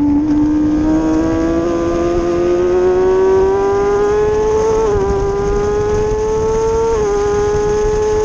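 Kawasaki ZX-636 sport bike's inline-four engine pulling under acceleration on track. Its pitch climbs steadily, with quick upshifts about five and seven seconds in.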